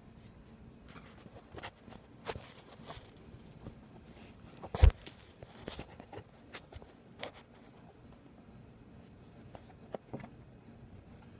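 Light handling noises: scattered small clicks and taps of objects being moved and set down, with one sharper knock a little before five seconds in.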